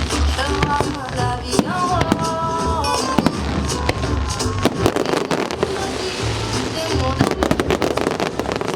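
Fireworks bursting over show music played on loudspeakers: deep booms and sharp crackling bangs that come thick and fast near the end.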